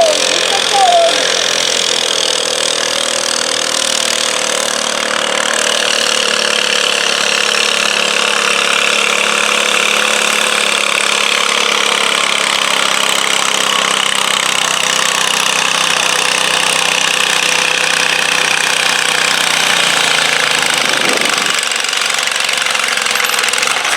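Stock-class garden tractor engine running hard under load during a pull, its pitch sagging slowly as it works, then easing near the end. A couple of short squeaky chirps sound right at the start.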